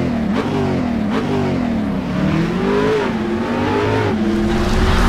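Car engine revving: its pitch rises and falls several times, then holds steady at a higher note about four seconds in.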